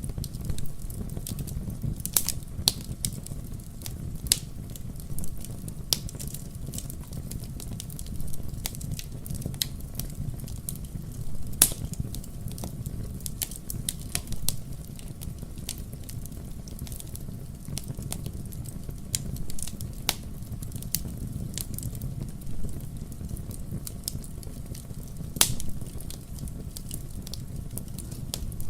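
Fireplace fire burning, with irregular crackles and pops over a steady low rumble; a couple of louder pops stand out about twelve seconds in and near the end.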